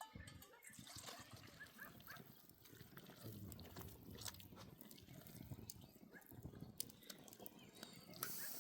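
Near silence, with faint scattered light clicks and ticks.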